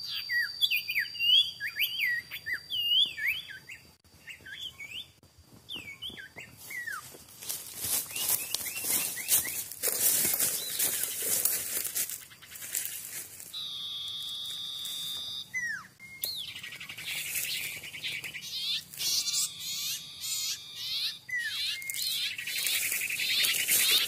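Bird calls: a quick run of short whistled notes that swoop up and down in pitch for the first several seconds, then a few scattered calls over a hissing, crackling background.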